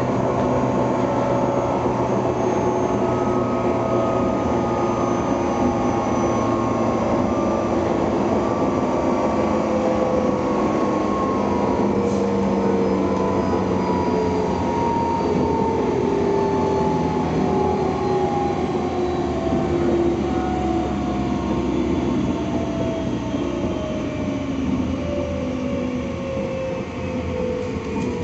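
Shinano Railway 169 series electric train running, with a steady rumble and a whine that falls slowly and steadily in pitch as the train slows.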